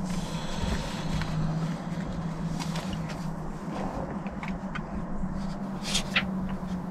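Steady low hum of a car engine idling, heard from inside the cabin, with a few faint clicks and rustles; the sharpest comes about six seconds in.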